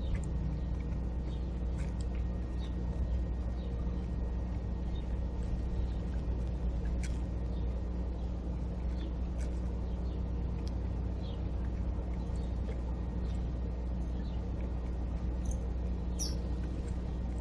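Small backyard birds giving short, scattered chirps over a steady low rumble, the clearest chirp near the end.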